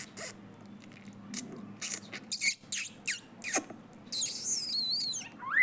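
A yellow bird calling at a window with short, high squeaky chirps and one longer wavering call about four seconds in, answering a person's squeaky mouth sounds.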